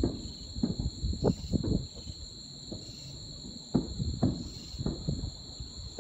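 Distant aerial fireworks booming at irregular intervals, about a dozen bursts, over a steady high-pitched trill of crickets.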